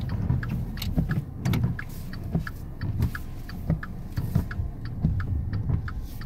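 Car engine running under load while the wheels spin in snow as the car struggles to move, a steady low rumble. A light ticking about three times a second and scattered knocks run through it.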